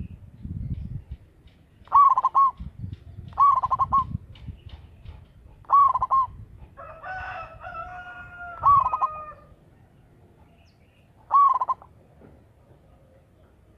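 Zebra dove (perkutut) cooing: five short, loud call phrases of quick arched notes at a few seconds' spacing, the last near the end. A longer, level call runs underneath through the middle.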